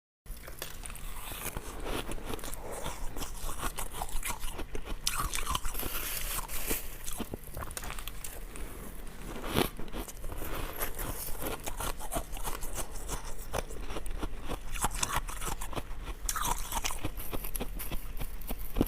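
Ice cubes being bitten and chewed, a dense irregular run of crisp cracks and crunches between the teeth.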